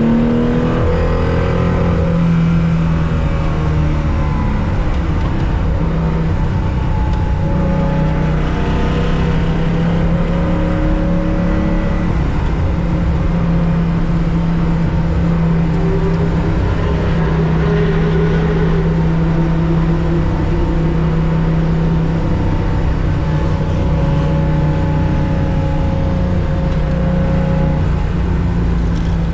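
Air-cooled 2.0-litre flat-six of a 1965 Porsche 911, heard from inside the cockpit, running hard under load. Its pitch climbs near the start, then holds mostly steady, with road and wind noise underneath.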